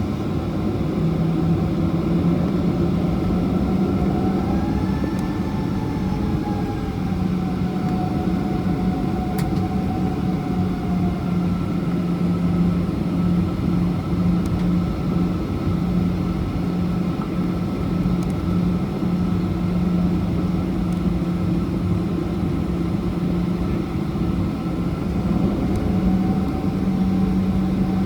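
Cabin noise inside a Boeing 737-800 with its CFM56 engines running at low power: a steady hum and rush with whining tones, one of which rises and falls a few seconds in.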